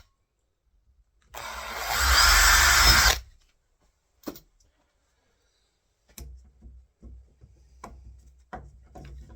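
Power drill running a pilot bit for about two seconds, boring a screw pilot hole for the door latch plate. Then a single click, and later a few faint knocks and clicks.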